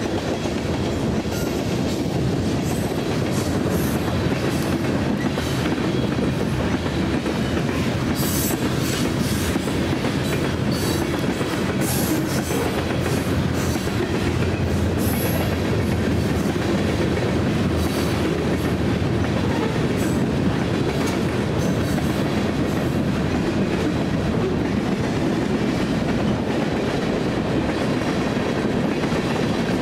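Freight train of covered hoppers and tank cars rolling past: a steady rumble of wheels on rail with clickety-clack over the rail joints. Brief high-pitched squeals and clicks from the wheels come through in the middle.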